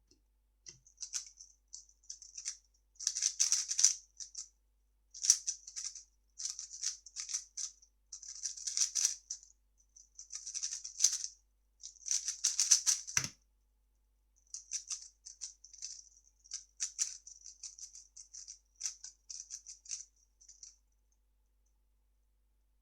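3x3 speedcube being turned fast by hand: dense bursts of clicking, rattling layer turns separated by short pauses, with one soft thump about thirteen seconds in.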